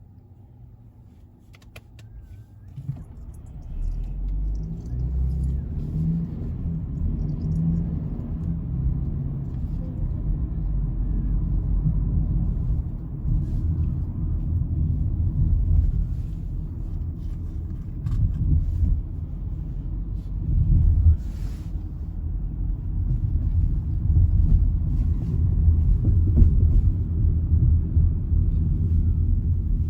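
Low rumble of a car on the move, building up about three seconds in and staying loud and uneven.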